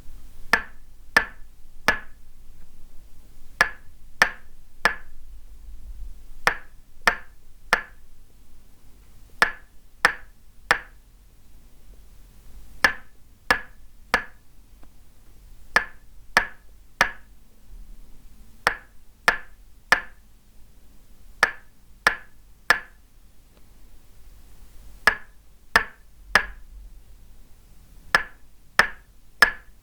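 Tok sen massage: a wooden mallet tapping a wooden stake held against the body, giving a dry, hollow knock. The taps come in steady rhythmic groups of three, about a second and a half per group, with short pauses between.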